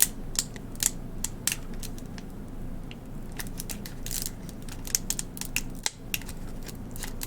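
Crisp, irregular clicks and crinkles, a few a second, from a plastic Listerine Ready Tabs package being handled close to the microphone.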